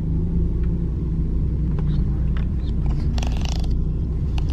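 Turbocharged Ford Focus ST's 2.0-litre four-cylinder engine running at low speed with a steady low rumble as the car rolls slowly.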